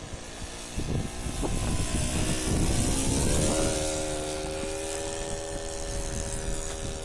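Radio-controlled model Cessna 177 Cardinal's engine and propeller on a low slow pass, growing louder toward the middle. About three and a half seconds in, the pitch rises as the throttle is opened, then holds steady.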